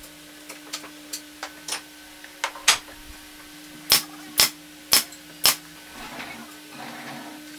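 Hammer striking wood: a few light taps, then a run of sharp blows, the four loudest about half a second apart. A steady low hum sits underneath.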